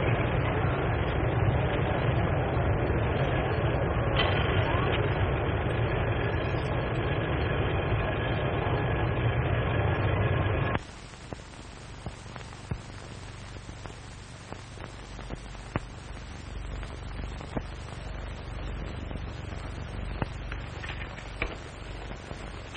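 Moving train in an early sound film: a loud, steady rumble and rattle. It cuts off suddenly about eleven seconds in, leaving a much quieter hiss with scattered clicks.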